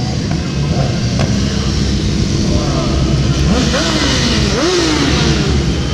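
Racing motorcycle engines running on a track, with a steady drone underneath. About three and a half and four and a half seconds in, the engine pitch climbs sharply and then falls away, as bikes accelerate and shift or pass by.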